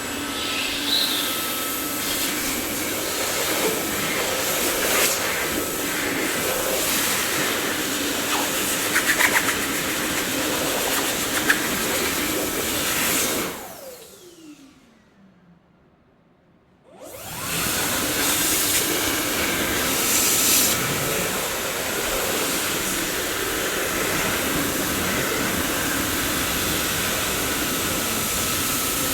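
Dyson vacuum cleaner running with a steady hiss. About halfway through it is switched off, its motor whine falling in pitch as it spins down to near silence for about three seconds. It then starts again and quickly runs back up to full speed.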